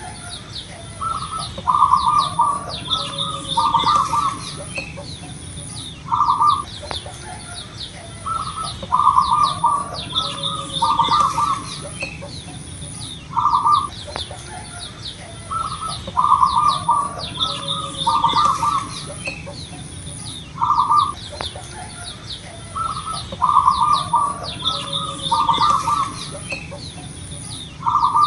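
Zebra dove (perkutut) singing its cooing song: a phrase of short low notes in quick clusters, repeated about every seven to eight seconds, four times. Fainter high chirps of small birds and a thin, high pulsing tone run beneath.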